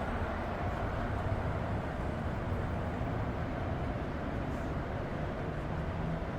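Gauge 1 (Spur 1) model train running on the layout: a steady rumble of wheels on track and motor.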